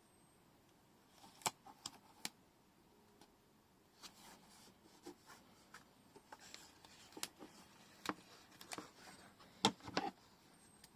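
Paper-crafting materials being handled on a tabletop: scattered sharp taps and clicks with soft rustling between them, the loudest cluster near the end.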